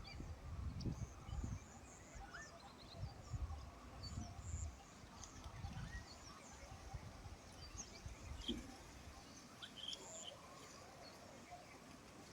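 Faint rural ambience with scattered small birds chirping. Low rumbling bumps, like wind on the microphone, come in the first few seconds and then die away.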